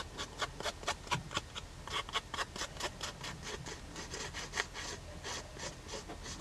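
A colouring tool rubbed back and forth along the edge of a card tag, giving quick, irregular scratchy strokes, several a second.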